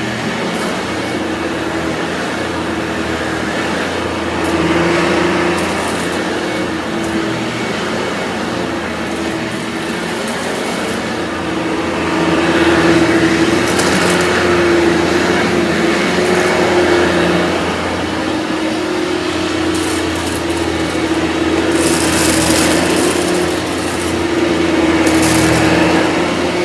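Vorwerk VK 121 upright vacuum cleaner with ET340 powerhead running, a steady motor hum with brush and airflow noise that swells louder several times.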